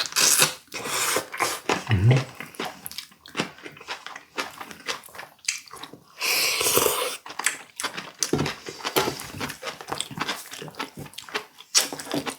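Close-up mukbang eating sounds: wet chewing and lip-smacking of boiled duck meat, many quick smacks and clicks in a row, with one longer, louder noise about six seconds in.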